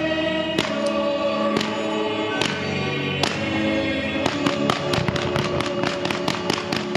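Choral music plays over a fireworks display. Single fireworks bursts bang about once a second, then a quick run of many bursts crackles from a bit past halfway.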